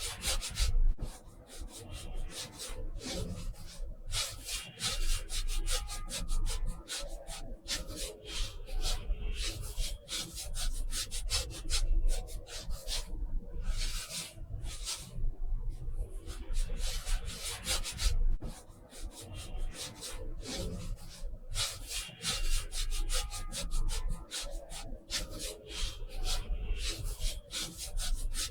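Paintbrush scratching across textured watercolor paper in rapid, repeated rubbing strokes.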